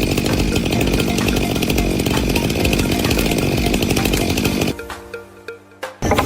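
A motor-driven power tool running steadily at speed, dropping away about four and a half seconds in. Background music plays underneath, with held tones in the quieter stretch near the end.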